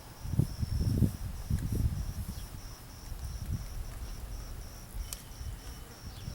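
Crickets chirping in a steady, evenly pulsing high trill, with low rumbling knocks in the first two seconds that are louder than the chirping.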